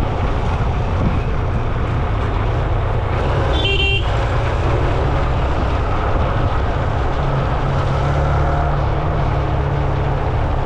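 Steady road traffic noise heard from a moving rider, with a heavy low rumble. A vehicle horn toots briefly about three and a half seconds in.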